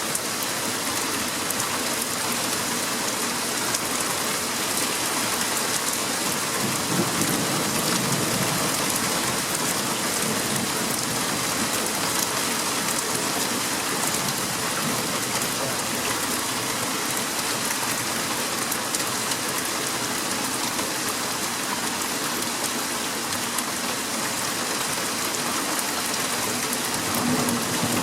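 Heavy rain falling steadily, pattering on surfaces, during a thunderstorm. A low rumble of thunder swells about seven seconds in, and another begins near the end.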